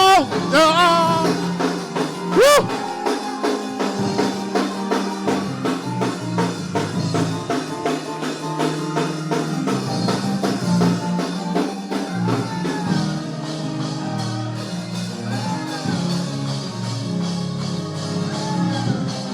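Gospel band music during a church service: drum kit, bass and keyboard playing a fast, steady beat, with a voice singing out in short phrases now and then.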